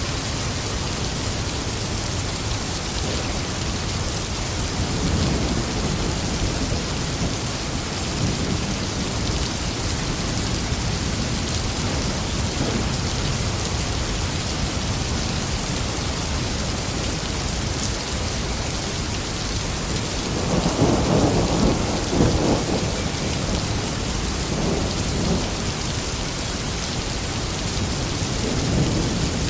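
Steady heavy rain with rolls of thunder rumbling through it. The loudest roll comes about two-thirds of the way in, with weaker rumbles earlier and again near the end.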